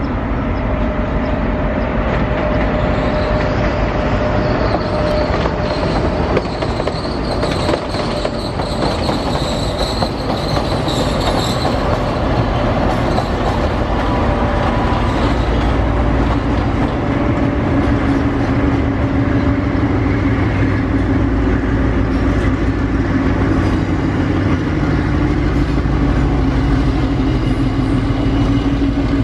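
Locomotives moving through a railway yard: wheels clatter over pointwork with a high-pitched squeal in the first half. From about halfway, a DF4C diesel-electric locomotive's engine drone builds as it hauls its passenger coaches in.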